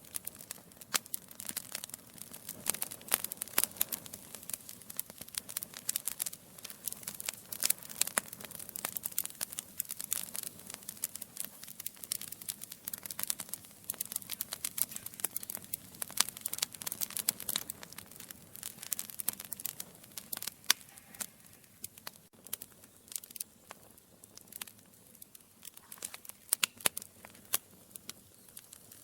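Wood logs burning in a fireplace, crackling and popping irregularly over a soft hiss of flame.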